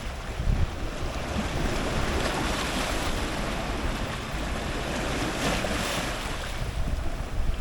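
Ocean surf breaking on rocks close to the waterline: a continuous rushing wash over a low rumble, swelling louder about three seconds in and again around five and a half seconds.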